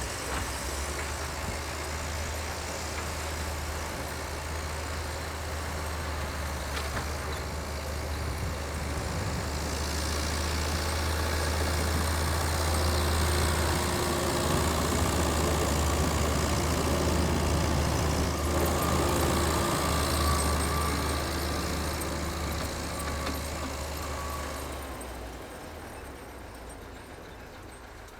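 Tractor engine running steadily, its low hum growing louder through the middle and then easing off, with the level dropping, near the end.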